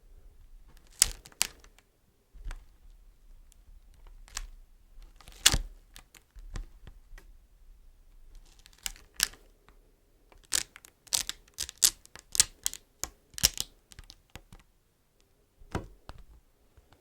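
Fingers tapping and handling beeswax items: irregular sharp taps and clicks, some single, others in quick runs.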